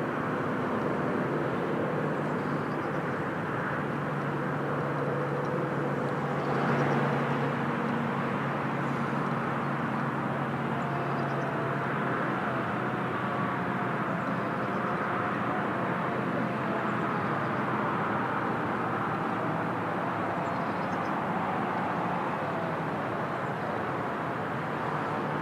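Steady drone of distant engines, with a faint wavering tone in the middle and a brief swell about six and a half seconds in.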